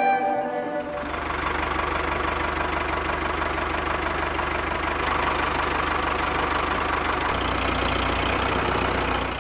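Miniature diesel engine of a model water pump running steadily with a fast, even pulsing beat; its note shifts slightly about seven seconds in.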